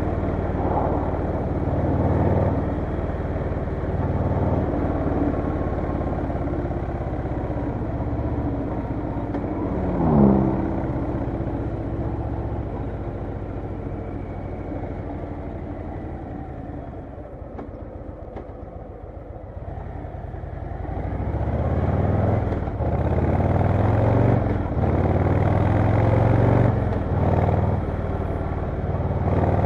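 Harley-Davidson Low Rider S V-twin engine running under way, heard while riding. About ten seconds in there is a brief louder sound that falls in pitch. The engine eases off through the middle, then pulls harder again from about two-thirds of the way in, with breaks in the sound like gear changes.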